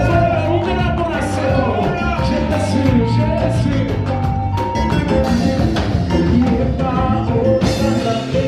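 Live gospel praise-and-worship band playing, with voices singing over a steady drum beat and bass.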